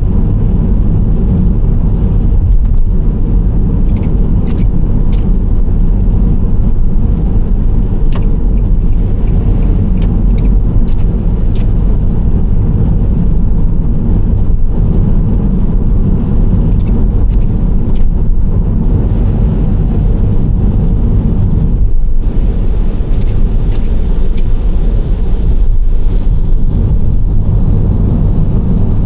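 Nissan Serena C25 minivan driving steadily: continuous low road and engine noise with a low hum, and a few scattered faint ticks.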